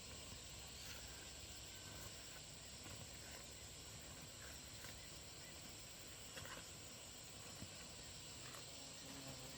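Faint, steady outdoor insect chorus: a continuous high-pitched buzz, with a few soft ticks.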